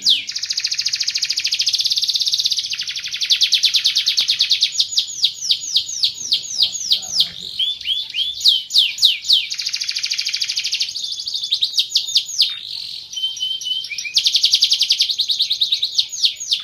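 Domestic canary singing continuously: long, fast rolling trills alternate with series of quick down-sweeping whistled notes, a few each second, and a brief steady whistled note near the middle.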